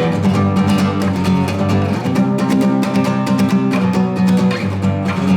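Acoustic guitar strummed hard in a quick, even rhythm: the gallop strum (бой-галоп) used for this song, with chords ringing between the strokes.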